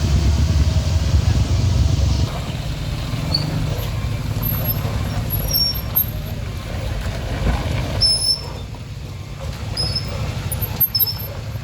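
Heavy vehicle engine rumbling, loudest for the first two seconds and then dropping to a lower running sound, with scattered short high squeaks.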